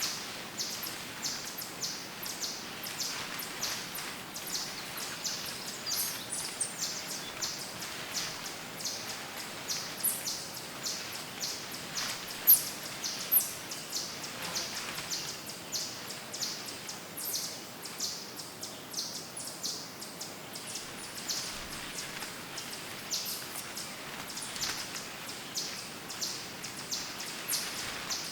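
Woodland birds chirping: rapid, very short high-pitched chirps, several a second, over a faint steady background hiss, with two louder chirps about halfway through.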